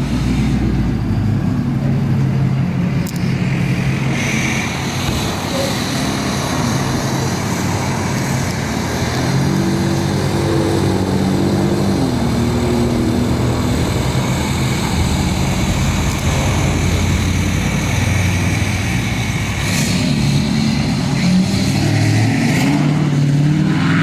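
A motor vehicle engine running, its pitch rising and falling, over steady background noise.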